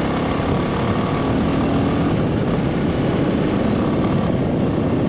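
Royal Enfield Classic 350's single-cylinder engine on the move at low revs, a steady deep burble, with wind and road noise.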